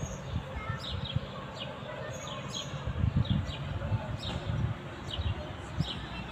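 Small birds chirping: many short, quick chirps that fall in pitch, repeated several times a second, over a low rumble.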